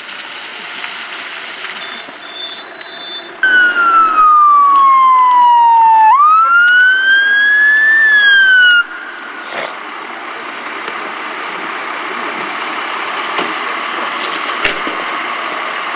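Emergency vehicle siren sounding a slow wail: one long falling sweep, then a rising sweep, then it cuts off abruptly, over a steady rushing background noise.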